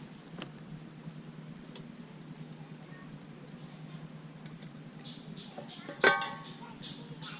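A few faint clicks over a steady low background, then a run of short scratchy strokes from about five seconds in. About six seconds in comes one sharp metallic clink with a brief ring, the loudest sound.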